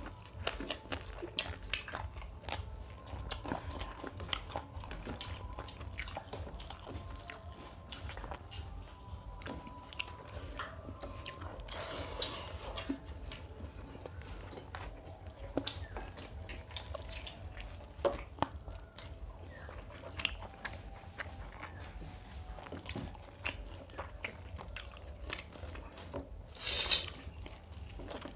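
Close-up chewing and biting of food eaten by hand, with wet mouth sounds and crisp crunches of raw onion. A short, loud noisy burst stands out near the end.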